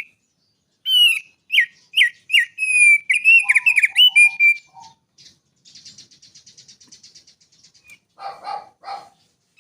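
A small songbird singing: a quick run of sharp, whistled notes that slide down in pitch, then about two seconds of a fast buzzy trill, and a few lower, harsher notes near the end.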